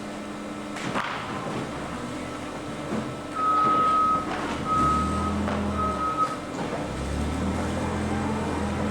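Three electronic warning beeps at one steady high pitch, each under a second long, come midway through. Alongside them a low steady machine hum starts, breaks off briefly, and runs on again from about seven seconds in.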